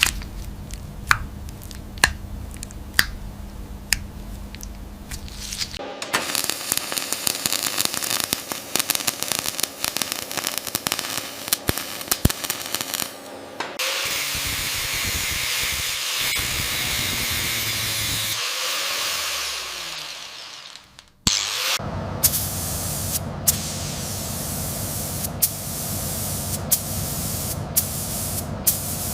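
Sharp clicks and taps of small metal toy parts being handled and worked with tools. From about halfway a steady hiss of sandblasting takes over; it dies away briefly and then resumes with sharp clicks.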